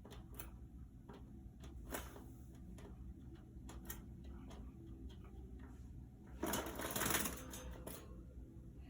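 Budgies moving about a wire cage: scattered light clicks and taps, with a louder rustling burst about six and a half seconds in.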